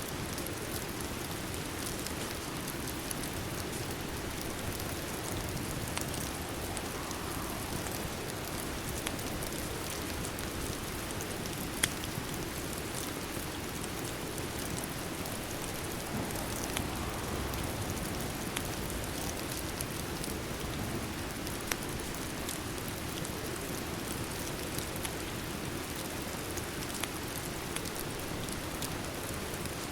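Steady rain, with scattered sharp crackles from a fireplace fire mixed in; the loudest pop comes about twelve seconds in.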